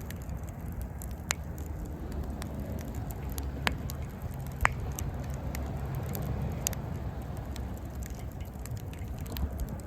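Wood fire burning in a Coleman Fire Disk fire pit, crackling with a few sharp pops over a steady low rumble.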